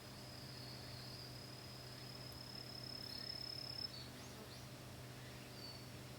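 An insect singing a steady, high-pitched trill that cuts off suddenly nearly four seconds in, followed by a couple of short chirps.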